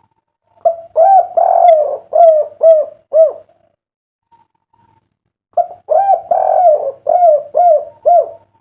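Spotted dove (derkuku) cooing: two song phrases about two seconds apart. Each phrase has a short opening note and a long drawn note, then ends in three short coos, the 'kuk 3' song type.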